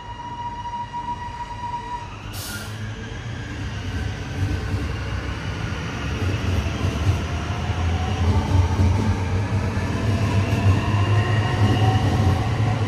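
A train pulling into the station, its rumble growing steadily louder, with several gliding whining tones over it. A steady high tone sounds for the first two seconds, and a short sharp hiss comes just after.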